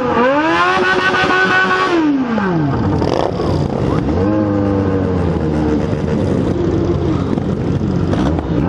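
Yamaha XJ6 N motorcycle's inline-four engine being revved: it rises at the start, holds high for about two seconds, then falls back by three seconds in. It then runs steadily at a lower pitch, with a short rise near the end.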